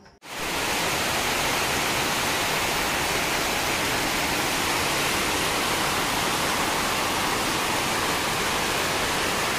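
Heavy rain pouring down in a steady, dense hiss, starting suddenly just after the start.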